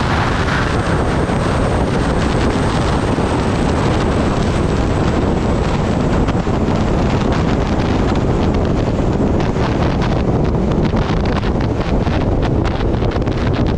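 Wind rushing and buffeting over the microphone of a motorcycle ridden at speed, a loud steady roar with the bike's running noise mixed in. The high hiss eases about halfway through, and gusty buffeting comes and goes toward the end.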